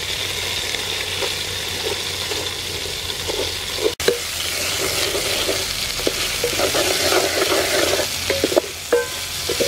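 Garlic, lemongrass and tom yum paste sizzling in hot oil, stirred with a wooden spoon that scrapes and knocks against the metal pot now and then.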